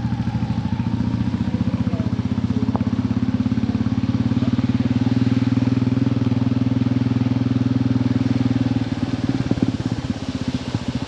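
Royal Enfield motorcycle engine running just after being started, with a fast, even exhaust beat at idle. About nine seconds in, the beat becomes uneven and a little quieter.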